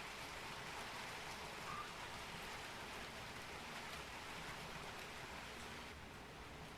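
Faint, steady hiss of noise, with no speech.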